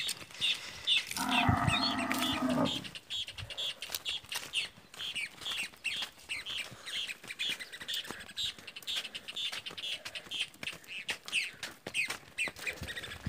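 Cattle being driven along a sandy dirt track: a bird chirping over and over, about two short chirps a second, over the scattered footfalls of the herd. About a second in comes one long, loud, steady-pitched call lasting under two seconds, the loudest sound here.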